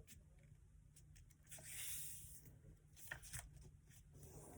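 Faint rustle of a sheet of paper being turned over and folded by hand. It has a soft sliding swish about two seconds in and a few light crinkles a little after three seconds.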